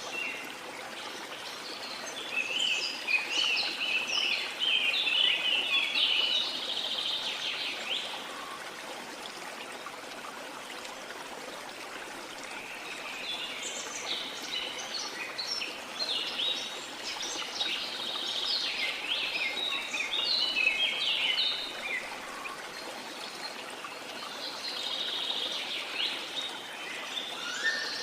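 Rain forest birds singing in three bouts of quick chirps and trills over the steady rush of a flowing river.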